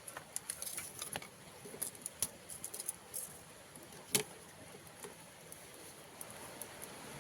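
Scattered light clicks and taps, with one sharper knock about four seconds in, over a steady high hiss.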